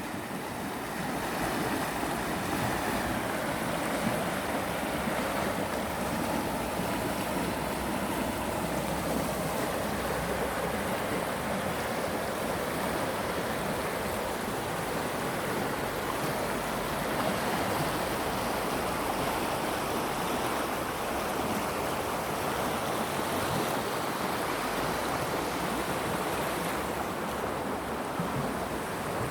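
Mountain river rushing steadily, fed by snowmelt and running high after heavy rain.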